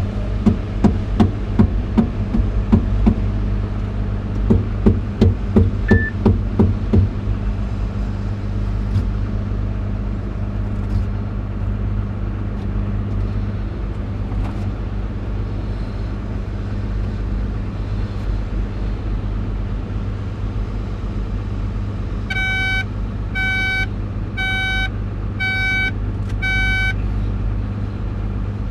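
Caterpillar 349E hydraulic excavator's engine running steadily, with a quick run of knocks and clanks for the first seven seconds or so. Near the end, an electronic warning beeper sounds five times, about a second apart.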